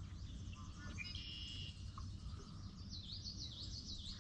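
Birds calling around a lake: a held high note about a second in, then a quick run of rising-and-falling whistled notes near the end, over a steady low outdoor rumble.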